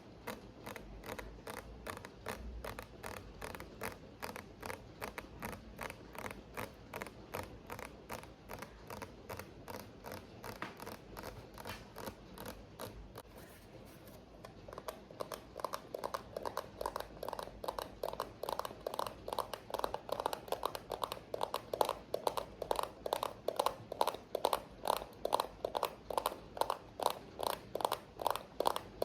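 ASMR tapping: fingers tapping on an object in a fast, even rhythm of about three taps a second, over a faint rain background. The taps become louder and fuller from about halfway.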